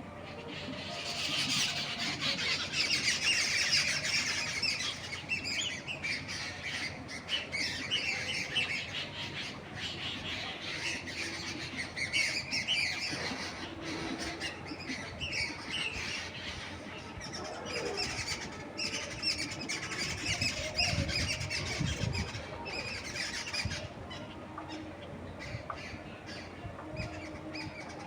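A flock of songbirds chirping and squawking all at once in busy, overlapping chatter that thins out near the end. A brief low rumble comes about three-quarters of the way through.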